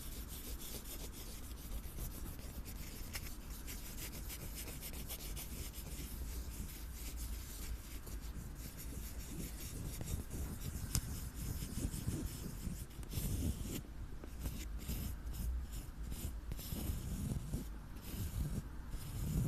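Close-miked ASMR scratching and rubbing on an object's surface: a dense, continuous fine scratching that breaks into separate short strokes with brief pauses near the end.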